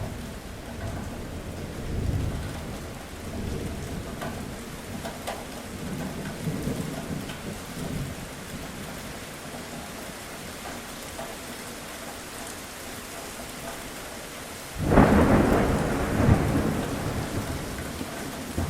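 Steady rain falling, with low rolls of thunder in the first half, then a sudden loud thunderclap about fifteen seconds in that rumbles away over the next couple of seconds.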